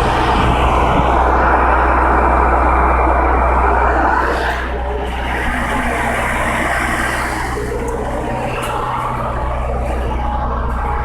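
Motor vehicle sound, most likely the ice cream truck's engine running: a steady low engine hum under road noise. The noise is loudest for the first four seconds and eases a little about four and a half seconds in.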